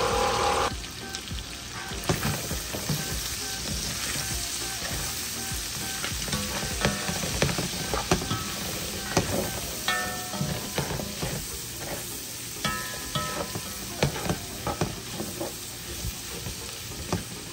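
Chicken pieces and smoked sausage sizzling in a frying pan, with a steady hiss, while being stirred; a utensil knocks and scrapes against the pan throughout. A louder sound cuts off just under a second in.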